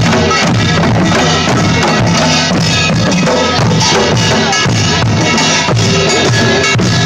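Loud music performed with a drum kit, a steady beat of drum strokes under the other instruments.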